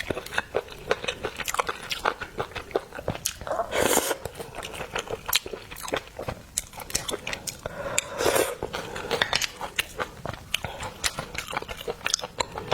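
Close-miked mukbang eating sounds of seafood: wet chewing and biting with many quick smacking clicks, and two longer rushing sounds about 4 and 8 seconds in.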